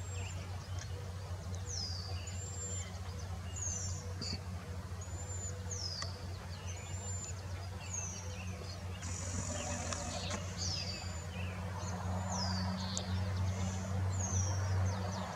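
A bird calling over and over with short, high, slurred notes, about one a second. A steady low hum runs underneath.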